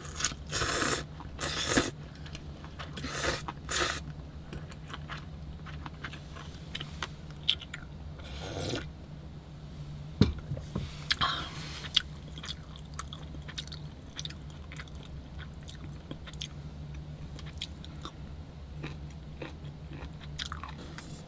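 A person eating cold buckwheat noodles, chewing and slurping, with a few louder bursts in the first four seconds and again around nine and eleven seconds. A steady low hum runs underneath.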